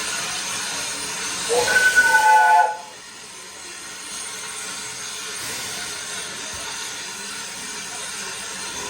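Steam locomotive whistle giving one short blast of about a second, starting about a second and a half in and cutting off sharply, over a steady hiss of steam that stops with it.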